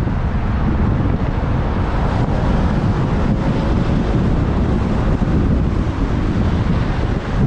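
Wind buffeting a camera microphone on a moving motorbike: a steady, loud low rumble of wind noise, with the sound of the ride underneath.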